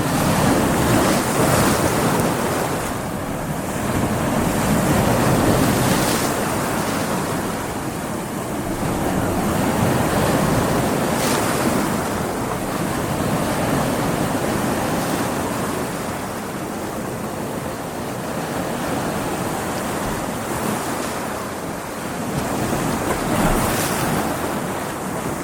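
Ocean waves breaking against rocks, the surf swelling and easing every few seconds, with wind buffeting the microphone.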